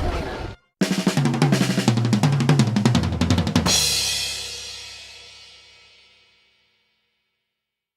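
Music with a drum kit playing a fast run of snare and bass-drum hits, ending on a cymbal crash that rings and fades out.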